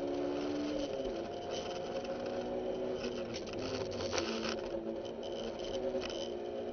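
Honda S2000's 2.2-litre four-cylinder engine heard from inside the cabin. Its note drops about a second in as the car comes off the throttle and slows, then runs on at lower revs. A spell of rattles and knocks comes in the middle.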